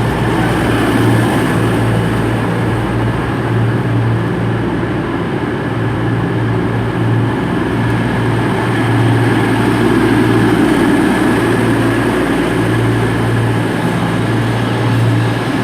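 A Class 221 Voyager diesel-electric multiple unit's underfloor Cummins diesel engines running with a loud, steady low drone that swells and eases slightly.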